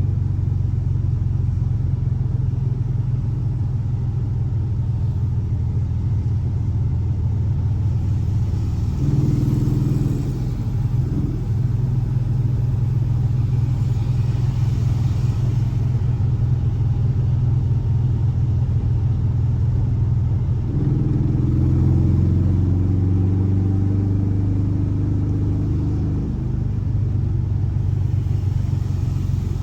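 Air-cooled 1584 cc flat-four boxer engine of a Volkswagen Fusca (Beetle), running steadily. Its pitch rises briefly about a third of the way in, and again for several seconds past the two-thirds mark, as the revs come up a little.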